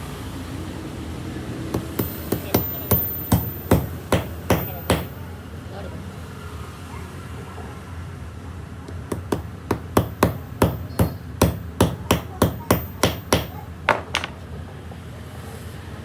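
A hammer striking metal in two runs of quick, even blows, about three a second, with a pause between the runs.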